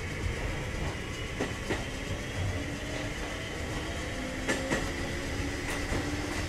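Kotoden 1070 series electric train running, heard from inside the car: the motor and gear whine climbs slowly in pitch as the train gathers speed. A few rail-joint clacks come over the steady rumble.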